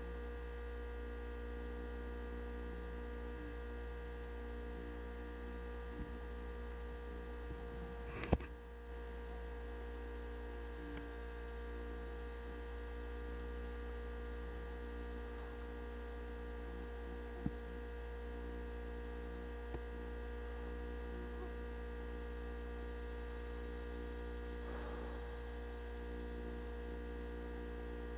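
Steady electrical hum with several fixed tones, with one sharp click about eight seconds in and a few fainter ticks later.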